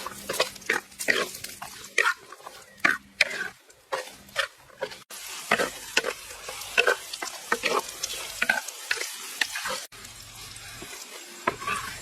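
Food frying in a pan with a faint sizzle, stirred with a utensil that scrapes and clinks against the pan many times at an irregular pace, with abrupt breaks about five and ten seconds in.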